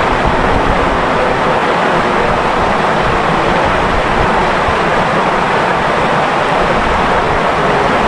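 Clear stream flowing and babbling, a loud, steady rush of water with no breaks.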